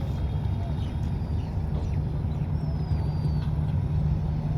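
Low steady drone of a river passenger launch's engine, growing stronger near the end, with a few faint high bird chirps over it.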